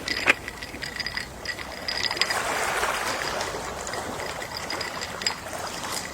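Gentle sea waves lapping; one wave washes in and fades away over the middle seconds. Many small, irregular clicks sound throughout.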